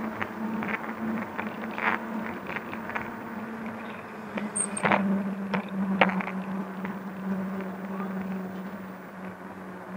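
Riding noise of a fat-tire electric bike picked up by its handlebar-mounted camera: a steady low hum with scattered clicks and rattles, most of them around five to six seconds in.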